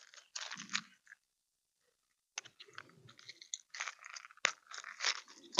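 Close-up handling of feeder fishing tackle: faint, irregular small clicks and crackly rustles as fingers work a snap swivel onto a feeder basket, a brief cluster early and a longer run from about halfway in.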